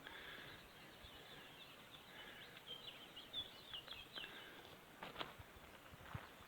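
Near-quiet outdoor air with faint bird chirps: a quick run of short high notes in the middle, then two soft knocks near the end.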